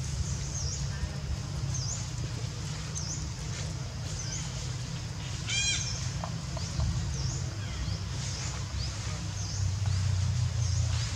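A bird repeats a short, high call that dips in pitch, about once a second, over a steady low rumble. About halfway through, one brief, louder, shrill call with many overtones stands out.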